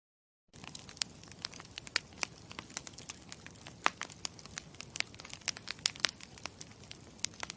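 Wood fire crackling: irregular sharp pops and snaps over a steady hiss, starting about half a second in and cutting off abruptly at the end.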